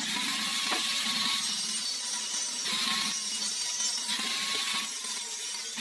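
Metalwork on an old car muffler: a steady harsh hiss with a faint wavering whine, swelling and easing every second or so.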